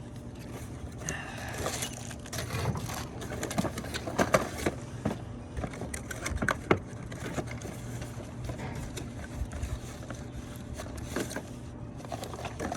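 Plastic extension rods and attachments of a dryer-vent cleaning kit being handled and unpacked: scattered clicks, knocks and scrapes over a steady low hum.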